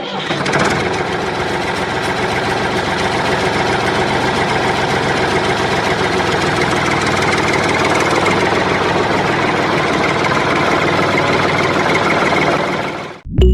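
Tractor engine sound effect: an engine running steadily at idle with an even, dense chug, cutting off suddenly near the end.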